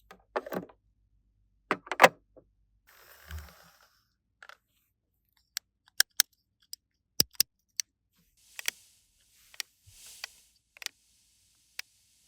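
Scattered sharp clicks and taps of small plastic toy pieces being handled and set down, with a few brief soft rustles between them.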